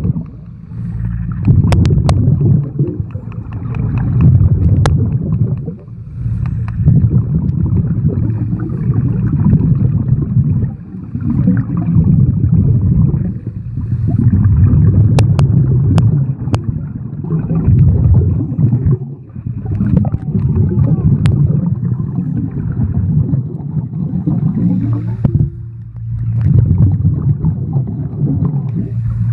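Scuba diver's exhaled bubbles rumbling and gurgling underwater in a pool, heard muffled, coming in surges every few seconds with short lulls between breaths.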